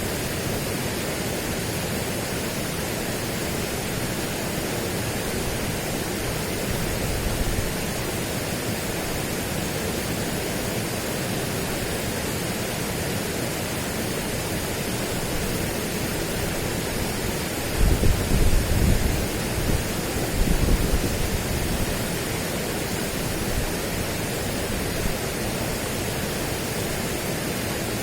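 Steady, even rushing noise of an outdoor nature ambience, with two brief low rumbles past the middle.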